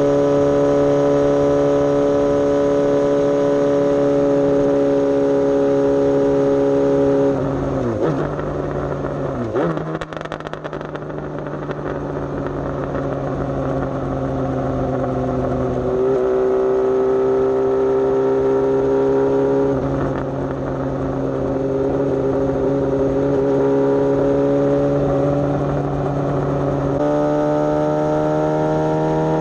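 Suzuki GSX-S750's inline-four engine running under way. It holds a steady pitch, falls and dips twice about eight to ten seconds in as the bike slows, then climbs gradually again with sudden steps in pitch, like gear changes.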